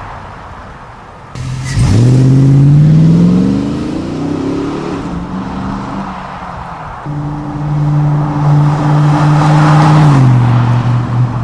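Chevy 6.0L V8 running through a Banks aftermarket exhaust. It accelerates hard with the exhaust note climbing steeply for about three seconds, then eases off. A few seconds later it holds a steady loud note and steps down in pitch near the end.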